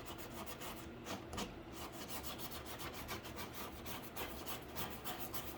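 Paintbrush being stroked back and forth across a cardboard PC case, a steady run of short rubbing strokes, several a second.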